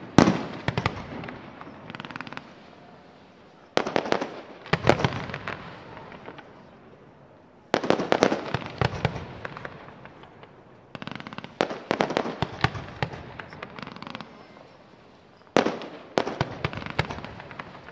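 Fireworks display: aerial shells bursting in volleys, each a loud bang followed by a spray of rapid cracks that dies away. About five such volleys come every three to four seconds.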